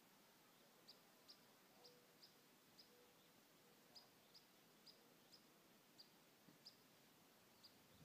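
Very quiet outdoor ambience with a small bird giving short, high chirps about one or two times a second.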